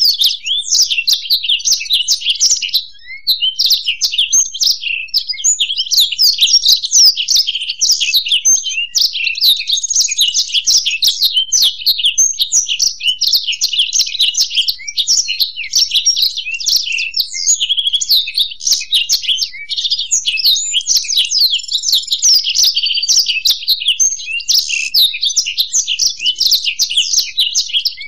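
Black-throated canary and European goldfinch singing together: a dense, unbroken stream of rapid high twittering and trilled phrases, with hardly a pause.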